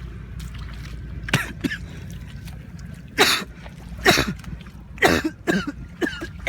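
A person coughing several times in short bursts, over a steady low rumble.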